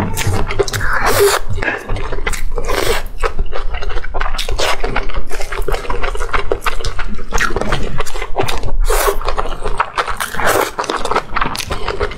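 Close-miked chewing of glass noodles and fried pork: wet, sticky mouth clicks and smacks in quick, irregular bursts.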